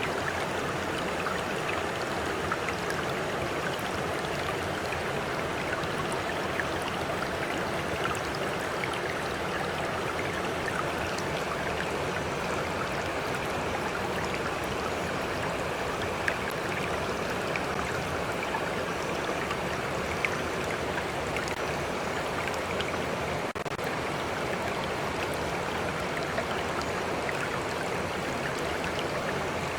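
Stream water flowing steadily, with small splashes and drips scattered through.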